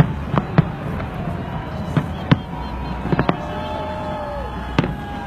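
Aerial fireworks bursting in a string of sharp bangs, several in the first second and more every second or so after, with thin drawn-out tones sliding slightly down in pitch and a steady bed of crowd noise beneath.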